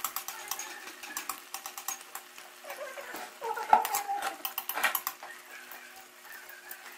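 Momos frying in hot oil in a metal karahi, the oil crackling steadily, while a metal spatula scrapes and clinks against the pan to turn them, mostly between about three and five seconds in.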